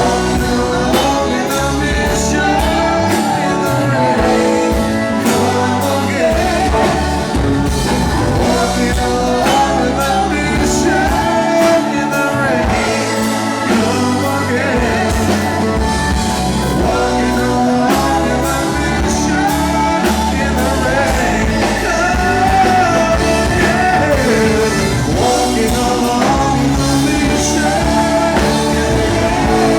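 Live rock band playing a song, with singing over guitar, bass and drums.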